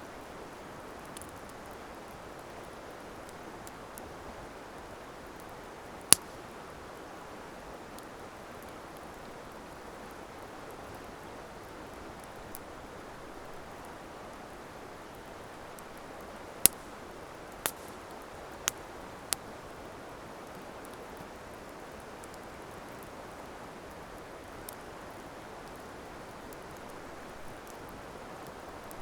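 Wood campfire burning: a steady hiss broken by sharp pops of the burning wood, one about six seconds in and a quick run of four between about seventeen and nineteen seconds.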